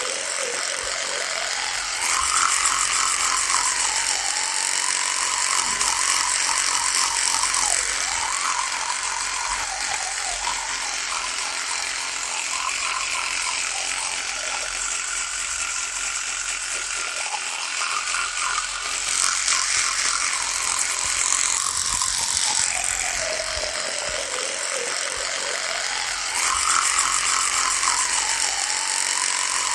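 Electric toothbrush buzzing continuously, its pitch slowly dipping and rising and its loudness swelling and easing every few seconds.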